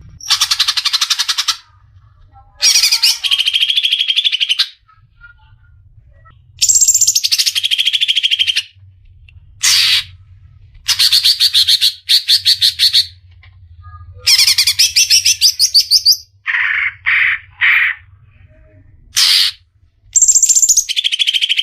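Green leafbird (cucak ijo) singing loud, rapid trilled phrases of a second or two each, with short pauses between them. About two-thirds of the way through come three short, lower notes.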